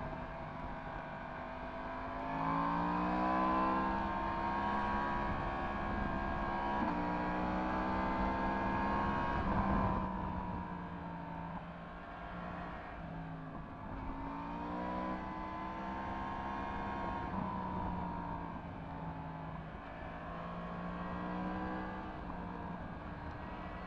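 Yamaha MT-10 SP's crossplane inline-four engine with an Akrapovič exhaust, heard while riding. The engine pulls up through the revs with a gear change about seven seconds in, eases off around ten seconds, then accelerates again with a few more shifts.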